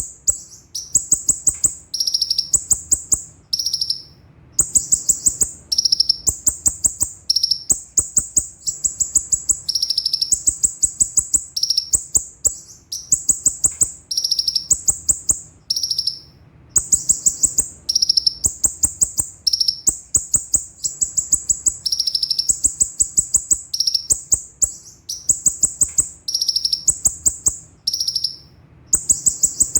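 Kolibri ninja (konin) sunbird singing: phrases of about one to two seconds, each a very fast, high-pitched rolling trill of repeated notes, with only short pauses between them.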